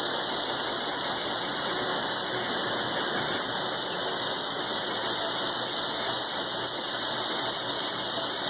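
Large milling machine cutting thick steel plate with a roughing end mill: a steady, high-pitched screech of the cutter in the steel over the hum of the machine, holding even and unbroken.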